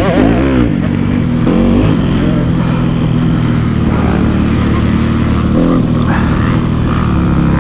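Kawasaki KX250F four-stroke single-cylinder dirt bike engine, fitted with a 290 big-bore kit, running hard on a motocross track. The revs swing up and down at the start, then hold fairly steady with small rises and falls.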